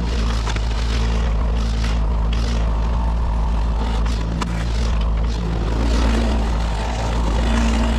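Kubota 33 mini excavator's diesel engine running steadily under work, with scattered short sharp clicks and scrapes over it.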